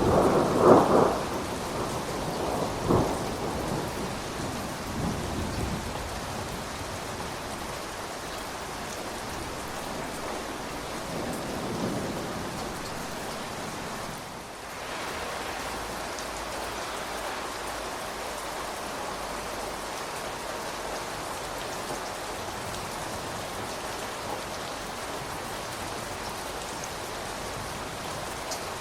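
Steady rain falling on surfaces, with thunder rumbling loudly in the first few seconds and then fading away, leaving an even hiss of rain that dips briefly about halfway through.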